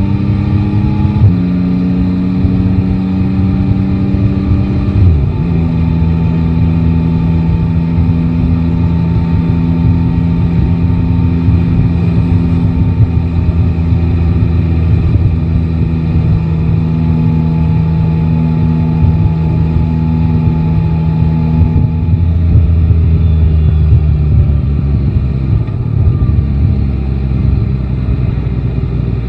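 Yamaha Tracer 9 GT's 890 cc inline-three engine under way. Its pitch drops in two steps in the first five seconds as it shifts up, holds steady at cruising speed, then falls lower near the end as the bike slows.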